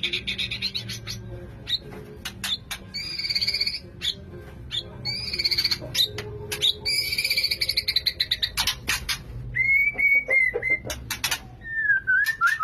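White-rumped shama singing a courtship song, typical of a male in breeding condition courting a female: sharp clicks and buzzy rattling phrases, then clear whistled notes that glide up and down near the end.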